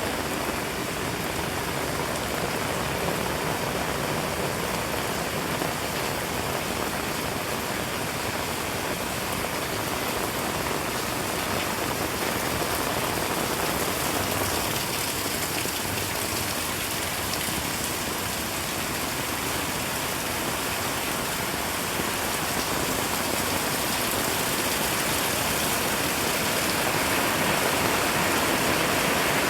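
Heavy rain falling in a steady, dense hiss, growing slightly louder near the end.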